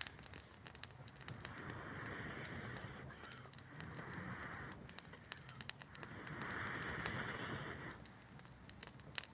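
Campfire of wet conifer wood crackling, with many sharp pops scattered throughout, over three rushing sounds of a second or more each.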